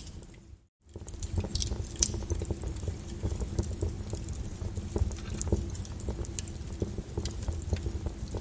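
Wood fire crackling and popping in a fireplace: a dense run of sharp snaps and pops over a low rumble. The sound drops out briefly a little under a second in, then the crackling carries on.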